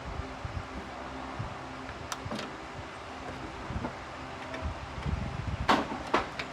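A few sharp clicks and knocks: two light ones about two seconds in and two louder ones near the end, over a steady low hum.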